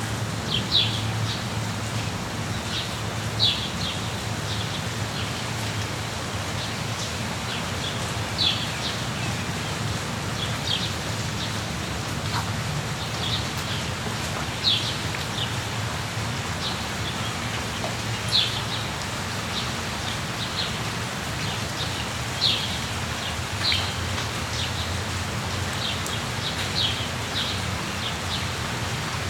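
Steady rain falling, with a low rumble underneath. A bird gives short, high chirps every few seconds.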